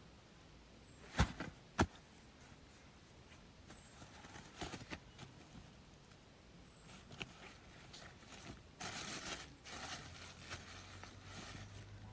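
Two sharp knocks about a second apart near the start, then irregular rustling and scraping handling noises in short bursts, the busiest stretch in the second half.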